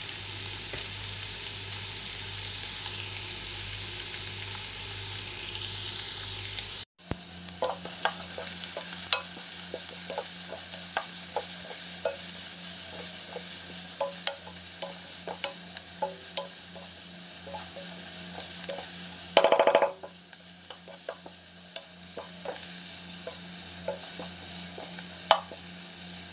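Sliced shallots, garlic and ginger sizzling in hot oil in a frying pan while a wooden spatula stirs them, with frequent clicks and scrapes of the spatula against the pan and one louder scrape about three-quarters of the way through. The sizzle cuts out for an instant about a quarter of the way in.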